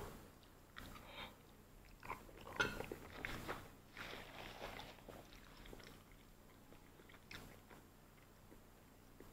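Soft chewing and mouth sounds of a person eating a spoonful of macaroni and cheese, coming in scattered bursts over the first five seconds. A paper napkin is wiped across the mouth about four seconds in.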